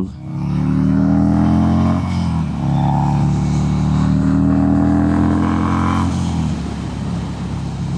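Harley-Davidson Sportster 883's air-cooled V-twin accelerating hard under the rider, with a short break about two seconds in as it shifts up, then pulling again before the throttle eases off near the end.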